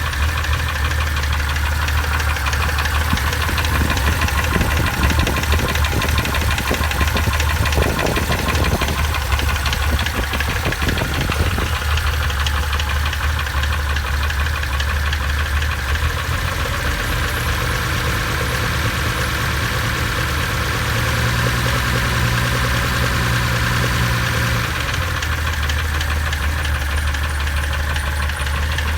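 Modified Nissan L28 2.8-litre straight-six engine idling, revs raised and held a little higher for several seconds past the middle before settling back to idle. It is being run to check for an abnormal noise.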